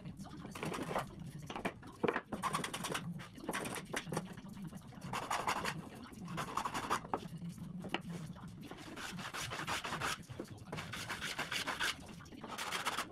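Alder wood being sanded by hand, in repeated back-and-forth rubbing strokes at an uneven pace of roughly one or two a second.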